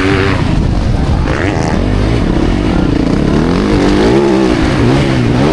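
Motocross dirt bike engines revving, their pitch rising and falling again and again as the riders work the throttle and gears.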